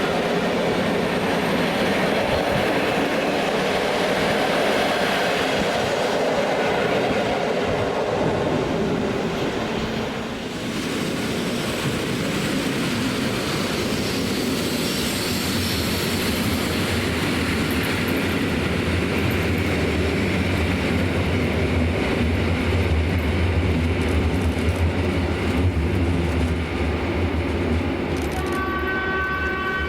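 Electric train running along the rails with steady wheel and rail noise and a low hum building in the second half; a horn sounds two notes together near the end.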